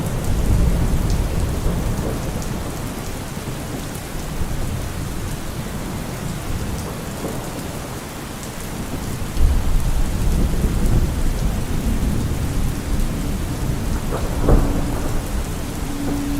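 Steady heavy rain with low rolls of thunder, one rumble swelling up about nine seconds in. A low held note comes in near the end.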